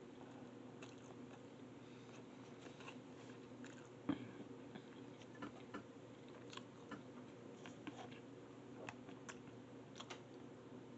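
Quiet chewing of spicy ramen noodles: scattered soft mouth clicks and smacks, with one louder knock about four seconds in, over a steady low hum.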